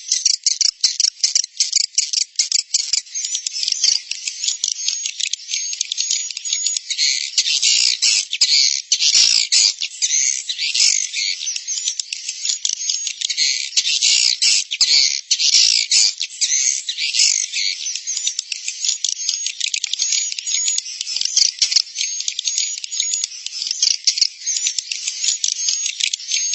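Swiftlet roosting-lure call: a dense stream of rapid, high-pitched chirps and twitters of many birds at once, thicker through the middle. The sound is cut off sharply above and below the bird calls, as on a filtered lure recording made for swiftlet houses.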